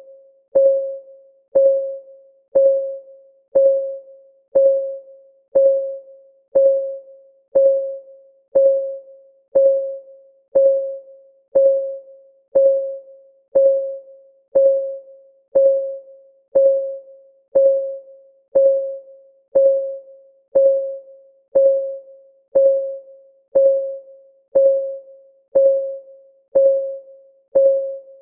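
Clock ticking sound effect, one tick a second, steady and even. Each tick is a short, pitched tock that dies away quickly.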